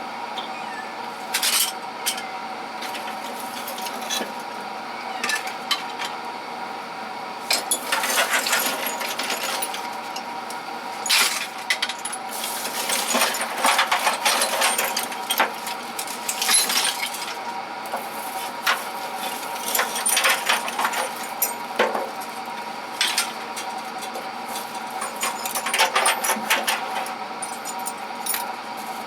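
Metal hand tools and small hardware clinking and rattling as they are handled and sorted in a tool chest drawer, in uneven bunches of clatter with short quieter gaps.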